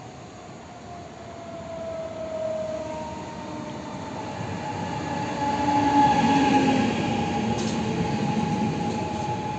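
Passenger train running on the rails, a whine of gliding tones over the rumble of the wheels, growing louder about halfway through.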